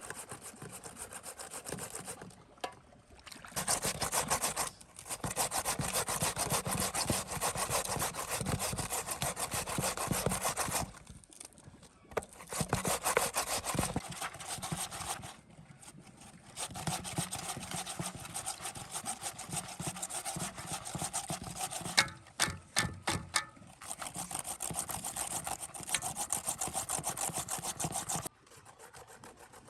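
Rapid, rasping strokes, such as a hand saw or rasp working against wood, in several runs of a few seconds each with short pauses between. A few sharp clicks come in one of the pauses.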